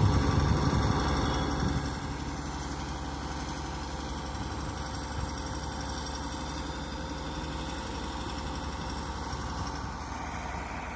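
Engine of a PQRS track-relaying machine running steadily, a little louder over the first two seconds.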